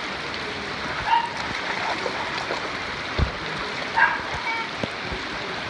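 A dog barking briefly twice, about a second in and again about four seconds in, over a steady hiss of rain.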